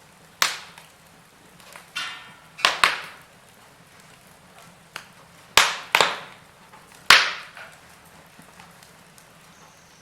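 Wood fire in a fireplace crackling, with about seven sharp pops and snaps over a faint steady hiss; the loudest snaps come in the second half.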